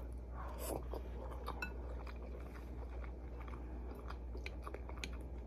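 A person chewing a mouthful of ramen noodles close to the microphone, with many small, irregular mouth clicks, over a steady low hum.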